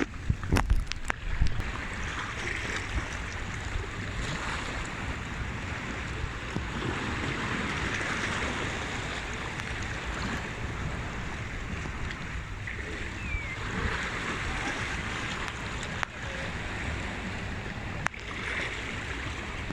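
Sea waves washing steadily, with wind buffeting the microphone. A few sharp knocks in the first second or so.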